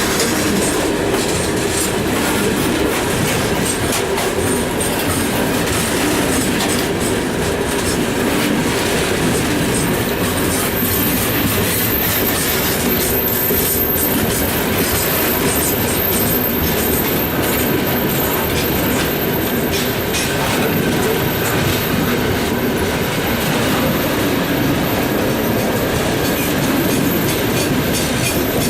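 Freight train hauled by a 2M62U diesel locomotive running along the line, its wheels clacking steadily over the rail joints. A thin, high-pitched wheel squeal joins in about ten seconds in.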